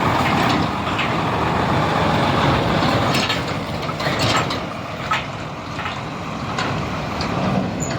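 Nissan Diesel UD440 crane truck's diesel engine running as the truck drives, a steady drone with frequent clicks and rattles on top.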